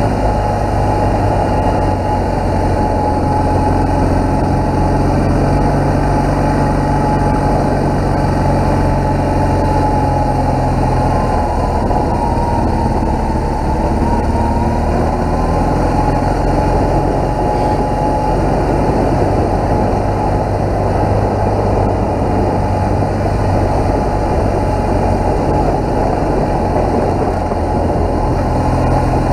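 BMW R1200GS flat-twin engine running steadily as the motorcycle is ridden at low speed, its note shifting slightly about ten seconds in.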